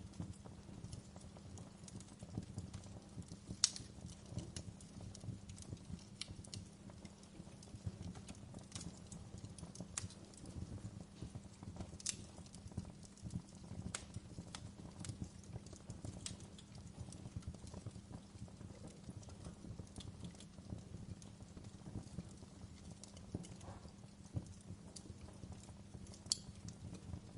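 Wood fire in a fireplace crackling steadily, with sharper pops of the burning logs every few seconds, the loudest about four seconds in and near the end.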